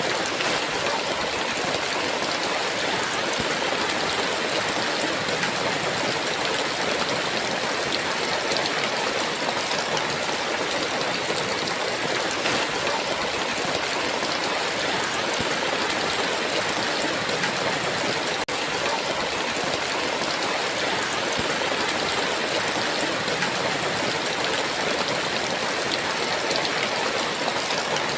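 Steady, unbroken hiss of heavy rain pouring down.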